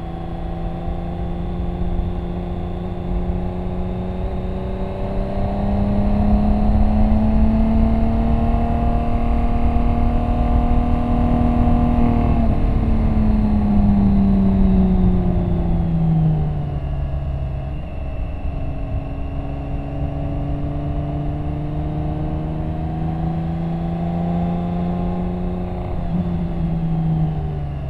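BMW K1600 GT's inline-six engine under way on track: its note rises steadily for about twelve seconds as the bike accelerates, falls away for a few seconds as the throttle comes off, then holds and climbs again, with a short dip near the end.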